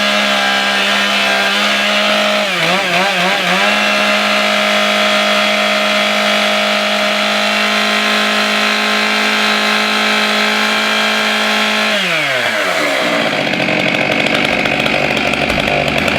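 Stihl MS661 Magnum chainsaw's 91 cc two-stroke engine running at high revs with a steady pitch, which wavers briefly about three seconds in. About twelve seconds in, the throttle is let off and the pitch falls as the engine slows down.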